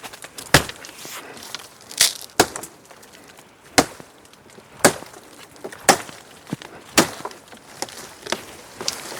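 Wood being chopped or split with a blade: sharp strikes, roughly one a second, each with a splintery crack.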